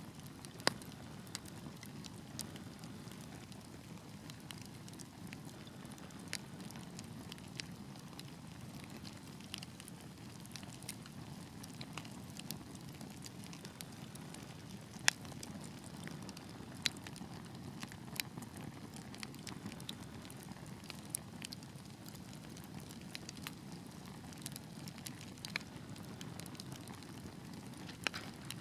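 Wood fire in a fireplace burning with a steady low rush of flames and irregular sharp pops and crackles, one pop louder than the rest about halfway through.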